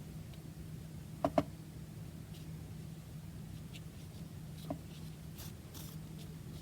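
Paper and card being handled on a tabletop: a few faint rustles, with two sharp taps just over a second in and a softer tap later.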